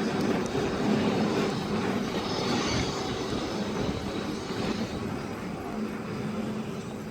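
Steady rumbling noise of a moving vehicle, with a low hum throughout.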